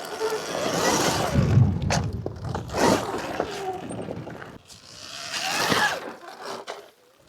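Sur-Ron Ultra Bee electric dirt bike being ridden over loose quarry ground: a motor whine that rises and falls with the throttle, with tyres scraping on gravel, in two surges that fade away near the end.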